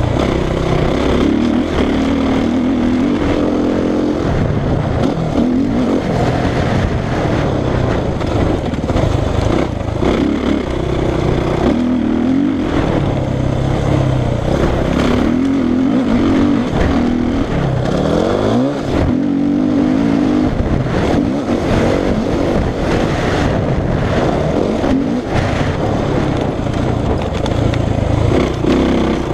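Suzuki RM-Z450 single-cylinder four-stroke motocross engine ridden hard, its pitch repeatedly rising under throttle and falling off as the rider shifts and chops the throttle.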